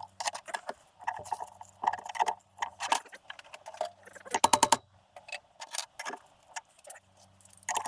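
Metal hand tools and engine parts clinking and clattering while being handled, with a quick rattling run of clicks about four and a half seconds in.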